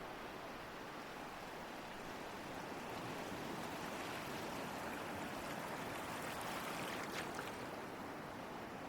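Ocean waves: a steady rush of surf that swells a little through the middle, with a brief crisp fizz about seven seconds in.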